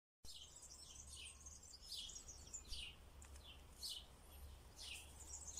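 Small birds chirping faintly, short chirps falling in pitch and repeating about once a second, over a faint low steady hum.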